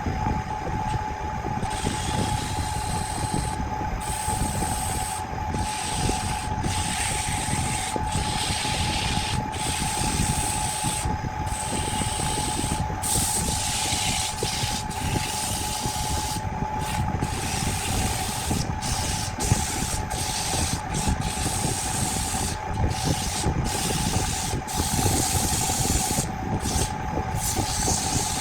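An electric woodworking power tool's motor running at a steady high whine, with wood being rubbed or abraded against it in uneven hissing strokes that come and go every second or so.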